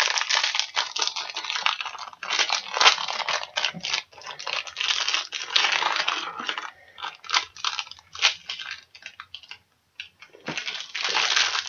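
Plastic wrapper of an individually wrapped fig bar crinkling and tearing open in the hands, irregular crackles with a short pause near the end.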